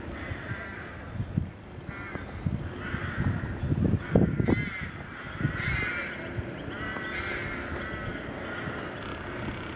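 A bird cawing over and over, harsh calls roughly once a second. A few low thumps come between about three and five seconds in.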